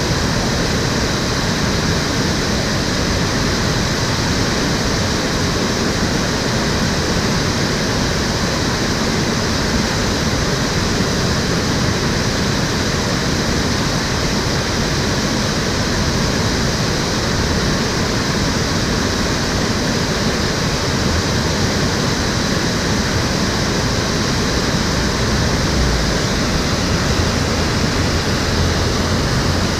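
Water of an urban stream rushing steadily over rocks and weirs, a constant full splashing rush with no breaks.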